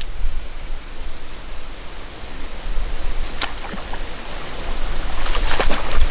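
Wind buffeting the microphone: a steady low rumble and hiss. There is a single sharp click about three and a half seconds in, and a short burst of sharp crackling near the end.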